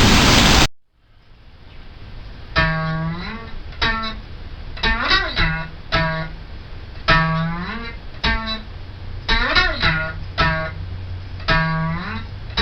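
Outro music of plucked acoustic guitar, with the same short phrase coming round about every four and a half seconds. Steady rain noise cuts off abruptly under a second in, just before the music starts.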